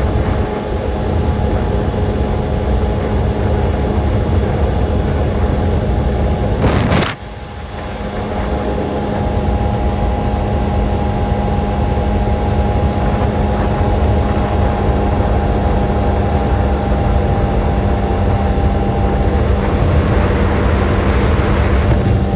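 Kawasaki sport motorcycle riding along at a steady engine speed, its engine hum mixed with a loud low rumble of road and wind noise. About seven seconds in there is a sudden sharp rush, then a brief dip in loudness that builds back up.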